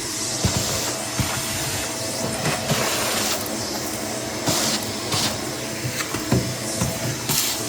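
Vacuum cleaner running and picking up a mess, with scattered clicks and rattles of debris being sucked up over its steady hiss.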